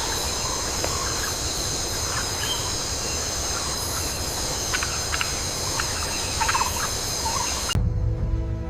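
Tropical forest ambience: a steady high insect chorus with scattered short bird or frog calls over it, cutting off sharply near the end.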